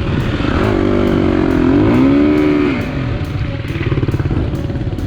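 KTM four-stroke dirt bike engine running, revving up about half a second in and dropping back down near three seconds.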